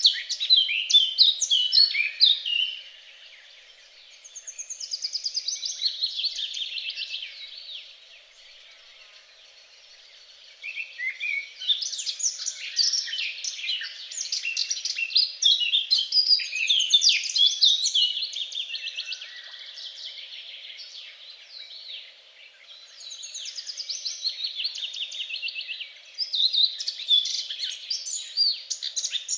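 Songbirds singing: phrases of quick, high chirps and trills, with lulls of a few seconds between them.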